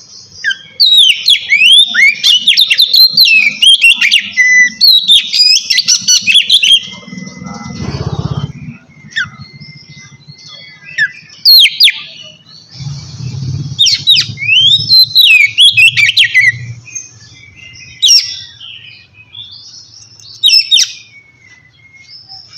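Oriental magpie-robin (kacer) singing loud, rapid and varied phrases of sweeping whistles and sharper notes, in bursts with short pauses between them. A fainter low rumble sits underneath around the middle.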